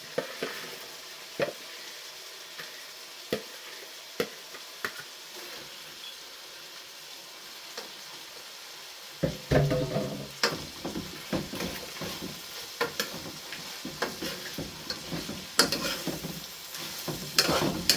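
Hot oil sizzling in a pot with occasional sharp clicks of a utensil. About nine seconds in it turns louder and busier, with stirring and clatter, as chicken back pieces go into the hot oil.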